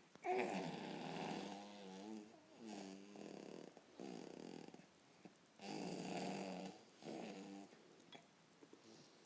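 A person making silly non-word vocal noises: about five separate bursts, the first ones with a wobbling, rippling pitch, broken by short pauses.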